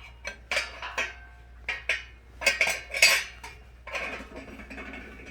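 Stainless-steel parts of a homemade wood stove clanking and clinking as they are handled and opened: a series of sharp metal knocks with brief ringing, loudest about three seconds in.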